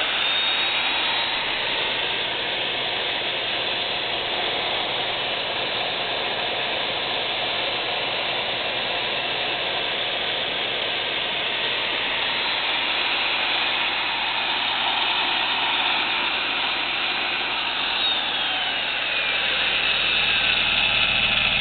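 Hougen HMD150 magnetic drill press motor running free with no cutting load, a steady high whine after spinning up in the first second. Near the end a thin tone slides down in pitch within the running noise.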